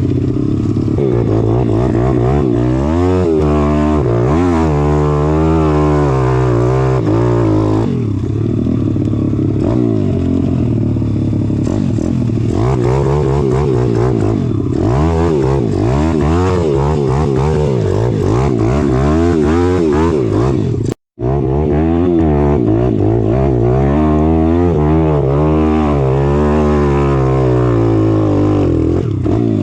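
Pit bike's single-cylinder four-stroke engine being ridden hard, its pitch rising and falling again and again as it revs through the gears and backs off. The sound cuts out completely for a split second about two-thirds of the way through.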